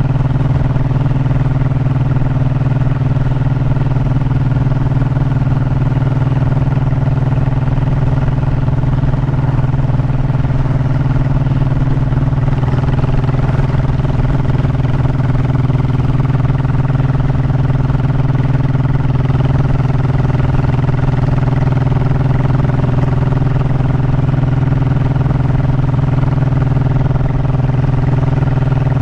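Honda motorcycle engine running at a steady speed while riding, an even, unbroken drone with no change in pitch.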